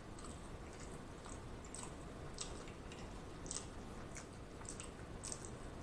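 Faint chewing of a mouthful of cheeseburger, with soft, wet mouth clicks coming irregularly every half second or so.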